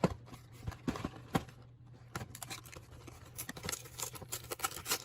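Food packaging being opened and handled: a run of irregular rustles, clicks and small knocks over a low steady hum.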